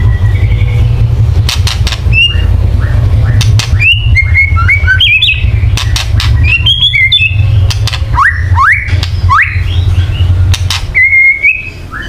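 White-rumped shama giving harsh clicking 'kretekan' rattles mixed with short whistled notes, with three quick rising whistles a little past the middle, over a steady low hum. This is the rattling call used to provoke murai batu into fighting mood.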